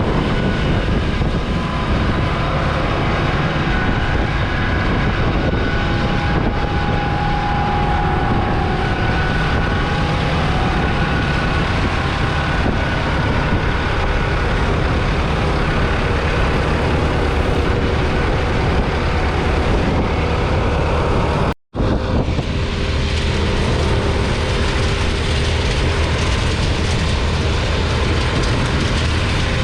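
Massey Ferguson 6715S's 4.9-litre four-cylinder diesel engine running steadily, with a faint drifting whine above it. The sound cuts out for an instant a little past two-thirds through.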